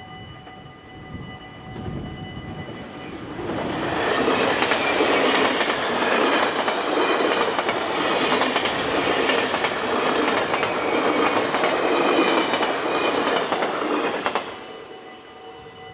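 A double-deck electric passenger train passes at speed through a level crossing, with wheels clattering on the rails. It builds up about three seconds in and cuts off fairly sharply near the end. The crossing's warning bell rings steadily before and after it.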